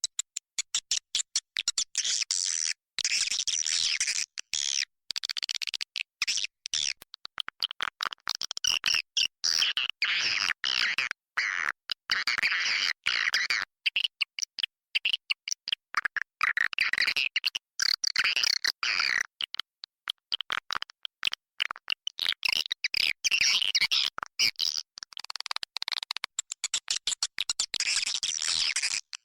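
Recorded swiftlet calls: a dense, rapid chattering of high chirps and twitters, played as a lure call to draw swiftlets in to roost and nest in a swiftlet house.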